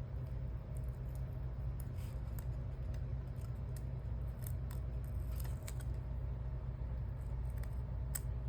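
Small scattered clicks and light scrapes of metal tweezers working at the edge of glued paper, over a steady low hum.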